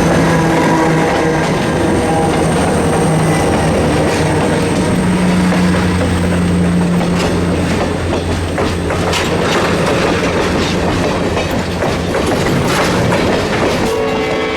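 Chesapeake & Ohio 1309's steam train running by, a steady rumble with wheels clicking over rail joints in the second half. A steam whistle starts to sound near the end.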